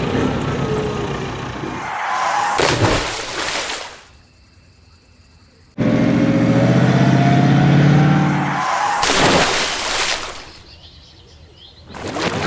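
Truck engine sounds in separate bursts: a noisy stretch with some rising tones, then a steady engine drone for about three seconds starting some six seconds in, then another short noisy burst.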